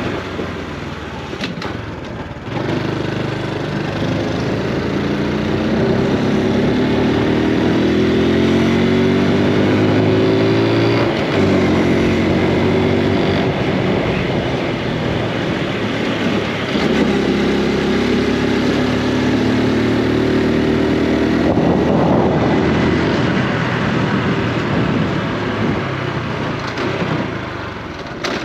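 Honda Super Cub C125's single-cylinder engine and exhaust running under way, its pitch climbing as the bike accelerates, dropping sharply at a gear change about a third of the way in, then rising again and easing off near the end.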